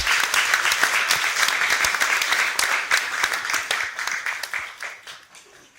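Audience applauding, a dense patter of clapping that fades away about five seconds in.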